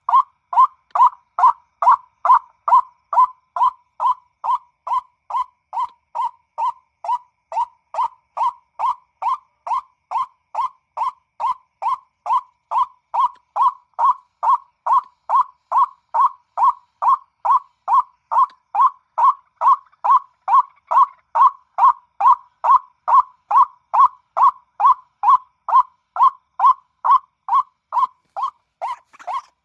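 White-breasted waterhen call played from an MP3 as a hunting lure through a loudspeaker: one short note repeated steadily about twice a second.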